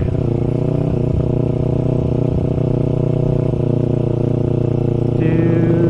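Sport bike engine running steadily while riding, heard from on the bike. About five seconds in, its note changes and a higher whine joins.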